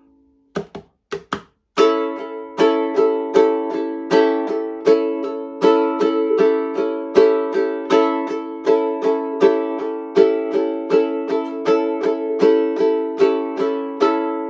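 Ukulele strummed in a steady rhythm, starting about two seconds in after three short muted chops on the strings.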